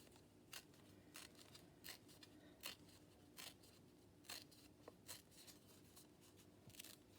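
Scissors snipping paper in short, quiet cuts, roughly one snip every 0.7 seconds.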